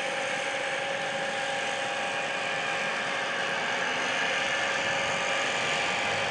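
Small model aircraft engine running steadily at high speed, a continuous buzzing drone with a few held tones.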